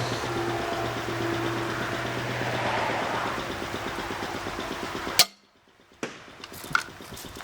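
A steady low hum with a few held tones, then a single sharp crack about five seconds in, the shot of an Excalibur Matrix 380 crossbow. Right after the crack the sound drops out almost completely for a moment, then comes back quieter with a few small clicks.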